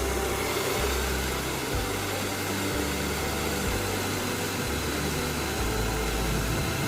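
Hand-held hair dryer running steadily, an even blowing rush that comes on abruptly, over background music with a repeating bass line.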